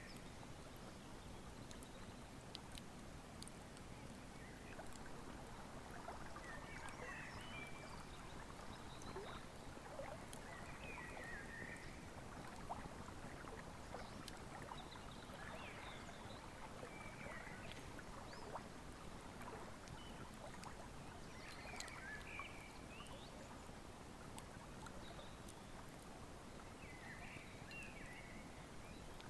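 Wood fire crackling in sharp, scattered pops over the steady rush of a flowing river, with a bird giving short high chirping calls every few seconds.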